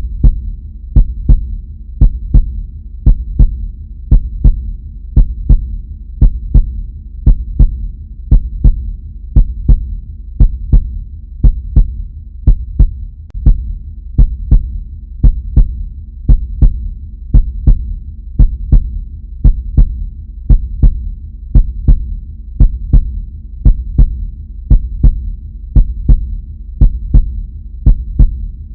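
Heartbeat: steady lub-dub double thumps, about one beat a second, over a continuous low hum.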